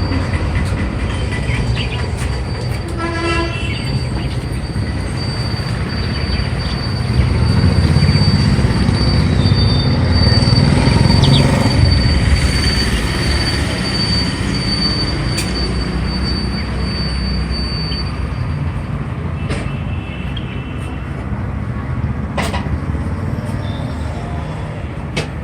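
A train running past: a steady low rumble that swells and fades in the middle, with a thin high wheel squeal held for much of it and a short pitched call a few seconds in.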